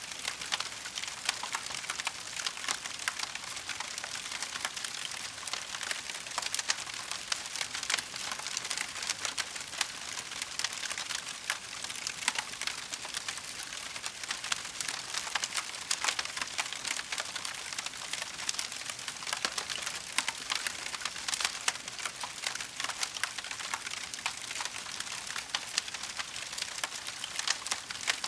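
Wood fire crackling steadily: a dense, continuous stream of small pops and snaps.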